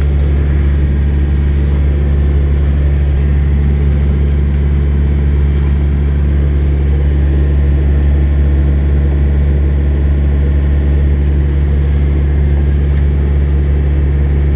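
Steady low drone of an idling engine, unchanging in level and pitch throughout.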